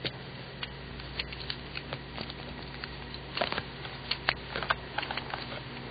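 Pentech mechanical pencil with 0.7 mm lead writing on paper: irregular short scratches and taps of the lead, bunched together around the middle, over a steady low hum.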